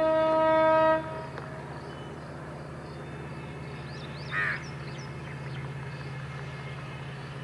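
WDP-4D diesel locomotive's horn sounding and cutting off about a second in, leaving the steady low rumble of its diesel engine. A crow caws briefly midway.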